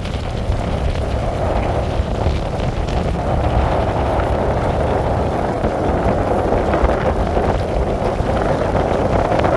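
Steady rain with wind buffeting the microphone: a dense hiss with a low rumble beneath, growing a little louder after the first few seconds.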